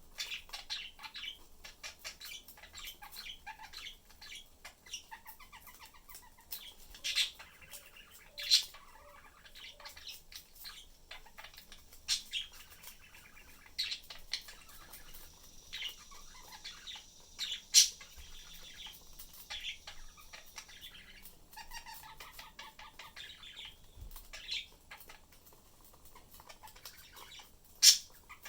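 Pet budgerigars chirping and chattering in a cage, a fast run of short high chirps with a few louder, sharp calls, and some wing flutter.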